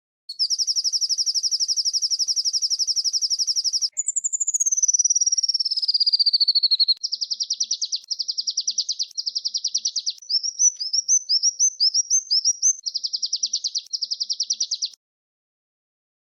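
Recorded small songbirds' high, fast rolling trills: a rapid trill, then a trill sliding down in pitch, then choppy trills and a run of short rising chirps, cutting off about a second before the end.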